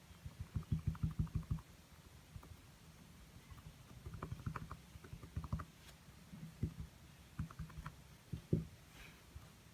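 Quick runs of soft, low taps from a paintbrush dabbing on a small stretched canvas, in three bursts, with one louder tap near the end.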